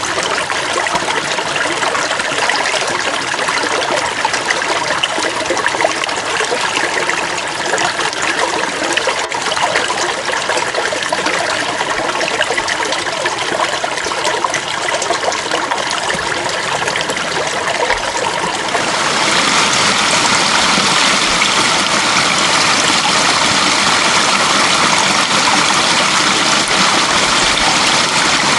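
Flowing water of a stream, a continuous splashing trickle. About two-thirds of the way through it changes to a louder, steadier and brighter rush.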